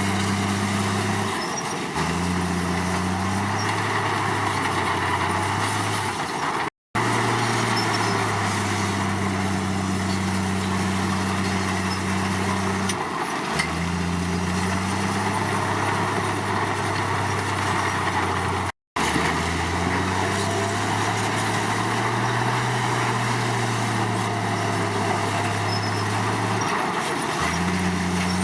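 Komatsu D53 bulldozer's diesel engine running under load, its pitch stepping up and down as it works. The sound cuts out completely twice, briefly.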